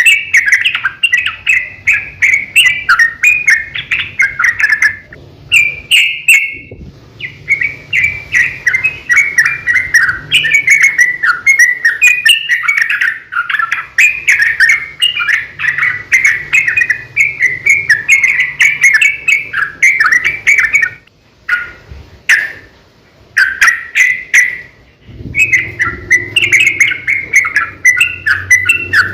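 Yellow-vented bulbul (trucukan) singing a long, fast run of chattering notes, broken by a few short pauses. This is the bird in full song ('gacor'), the kind of call used to provoke other bulbuls into answering.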